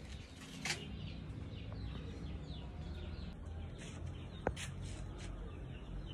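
Small birds chirping, many short, quick falling chirps, over a steady low rumble on the microphone.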